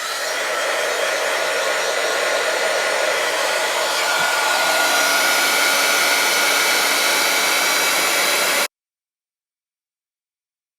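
Embossing heat gun blowing steadily with a faint whine, melting silver embossing powder on a stamped card. It cuts off abruptly near the end.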